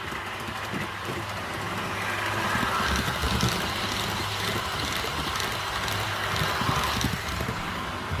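REE HO-scale TGV model train running past at high speed on the layout track. Its running noise swells for several seconds, with scattered sharp clicks, then fades.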